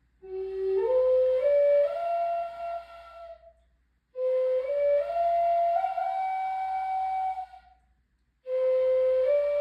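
A breathy flute playing a slow melody in three long phrases, each climbing in small steps, with short pauses for breath between them.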